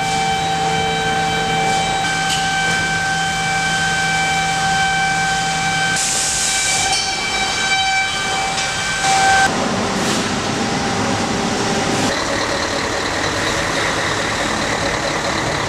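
Sawmill processing-line machinery running: a steady high whine over noise. About ten seconds in, the whine drops away and a rougher, lower noise takes over.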